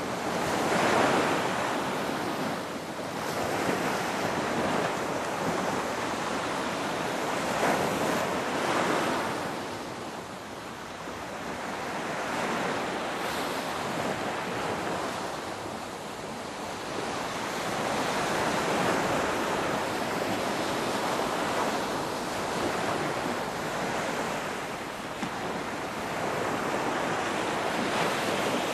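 Ocean waves breaking and washing on the shore, a continuous rush that swells and eases in surges every few seconds.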